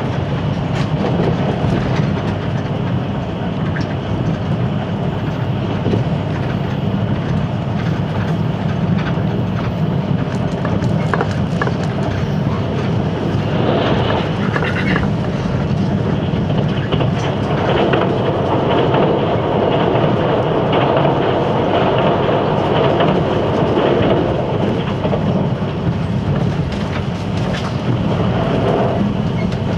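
Running noise of a JNR 583 series electric train at speed, heard from inside the passenger car: a steady rumble of wheels on track with the clickety-clack of rail joints, growing somewhat louder for several seconds past the middle.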